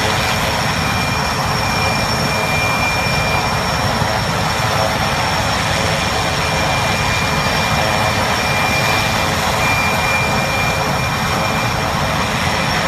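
Helicopter turbine engines and rotors running steadily, a continuous rush with a thin, steady high whine on top.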